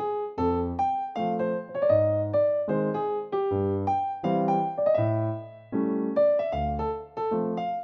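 Background piano music: a gentle melody over chords and bass notes, each note struck and fading.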